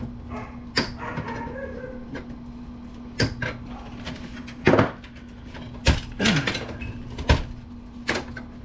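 Hand snips cutting through wires and cables inside a desktop PC, about eight irregular sharp snaps, over a steady low hum.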